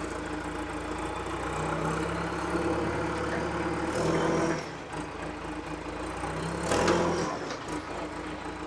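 Heavy equipment engine running steadily, picking up twice: once for a couple of seconds from about a second and a half in, and again briefly near the end.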